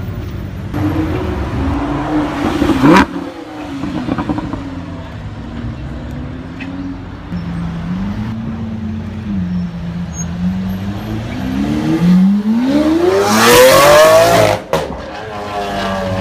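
Supercar engines revving and accelerating. A rev climbs to a sharp peak about three seconds in, a steadier engine note runs through the middle, and a long rising rev near the end cuts off suddenly.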